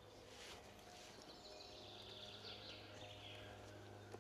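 Faint distant woodland birdsong, small birds giving quick repeated trills, over a low steady hum.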